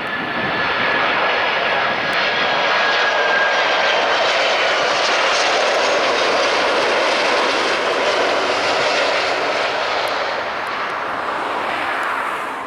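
Jet airliner passing close, a loud steady rush of engine noise with a thin high whine that drops slightly in pitch over the first few seconds.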